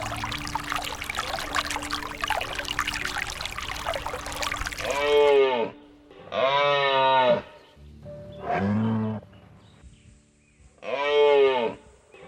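Rushing, splashing noise like running water, then four loud calls of about a second each from cattle lowing.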